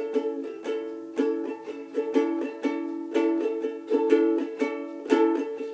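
Ukulele strummed on an A chord in a steady down-down-up-down-up-down-up pattern, with several strums a second.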